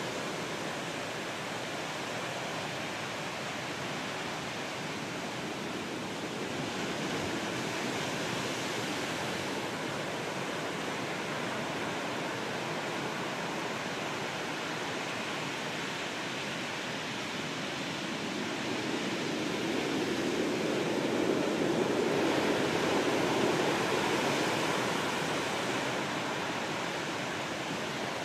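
Rough surf on the shore after a typhoon: a continuous wash of breaking waves, with a bigger wave building about two-thirds of the way in and easing off near the end.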